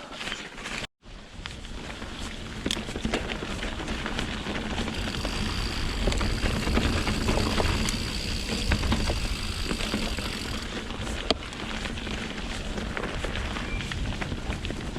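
Mountain bike on Pirelli Scorpion tyres riding over wet, rocky singletrack: continuous tyre and trail rumble with scattered knocks and rattles. A thin high whine runs for several seconds mid-way, and the sound drops out briefly just under a second in.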